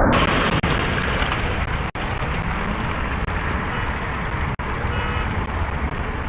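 Steady road-traffic and vehicle noise, with a couple of brief dropouts.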